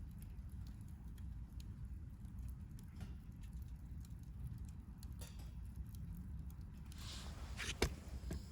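Wood campfire on a flat fire stand burning, with faint scattered crackles over a low steady rumble; about seven seconds in a soft hiss comes up and a sharp pop snaps out near the end.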